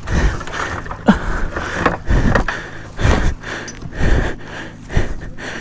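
A person breathing hard in heavy, gasping breaths, about one a second.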